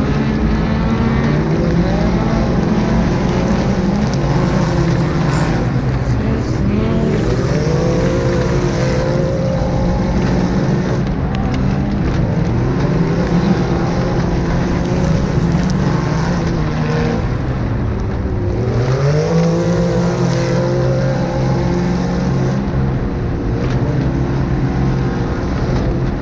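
Several side-by-side UTV racing engines running hard, their pitch rising and falling as they rev through acceleration and lifting off, with more than one engine heard at once.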